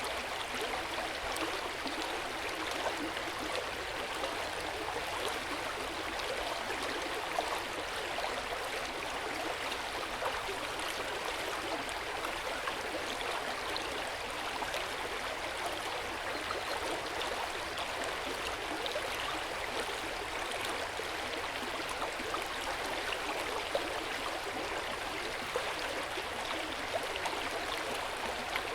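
A stream running steadily over rocks, a continuous rushing of water with no change throughout.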